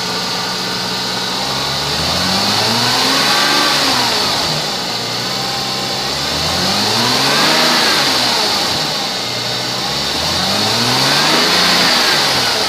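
2006 Mercedes-Benz C230 engine idling and revved up and back down three times, about four seconds apart, each rev rising and falling smoothly.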